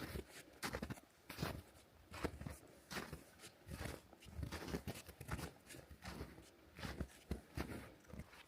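Footsteps of a hiker's boots on a frozen winter trail, at a steady walking pace of a little over one step a second.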